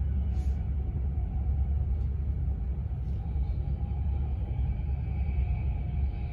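Passenger train running at speed, heard from inside the carriage: a steady low rumble of wheels on the track, with a faint whine that grows louder near the end.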